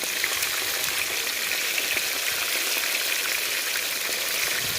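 Fish frying in hot oil: a steady sizzle with scattered crackles.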